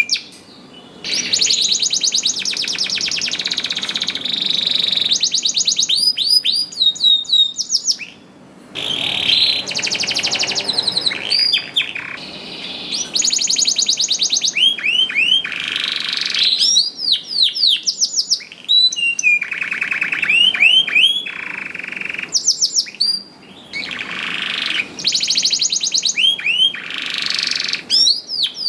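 Domestic canary singing a long, lively song of fast trills and rolls mixed with rising and falling whistled sweeps, broken by a few short pauses.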